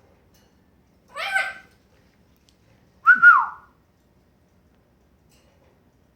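Congo African grey parrot calling twice: a short voice-like call about a second in, then a single whistle that rises and falls in pitch at about three seconds.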